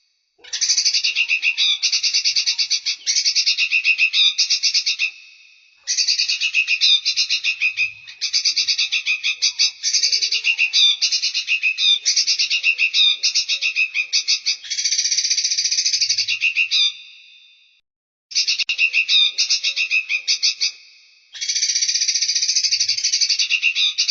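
Recorded songbird song played as bird-training audio: high-pitched, rapid chattering trills of fast repeated notes in phrases a few seconds long, with short pauses between them and a longer pause about three-quarters of the way through.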